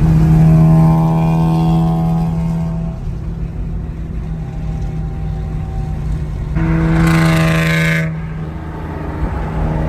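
Car engine revved and held at steady high revs for about three seconds, dropping back to a rumbling idle, then revved and held again for over a second near the end.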